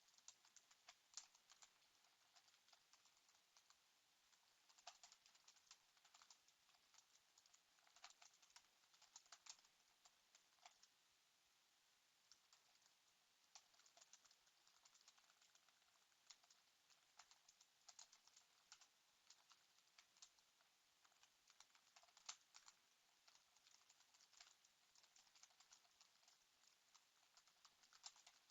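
Faint computer keyboard typing: runs of rapid key clicks, with a lull of a couple of seconds about midway.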